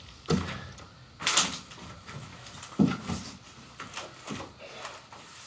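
A few knocks and short scrapes of heavy materials being slid and set down while unloading a truck, with a longer scrape about a second in and a sharp knock near the middle.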